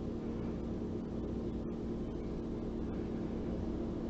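Steady low hum with a faint even hiss and no distinct taps or clicks.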